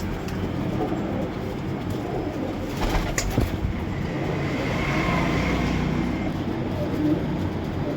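Flock of pigeons cooing in a low, continuous murmur, with a few sharp knocks about three seconds in.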